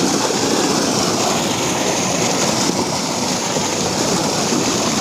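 Water rushing steadily, a loud, even rushing noise.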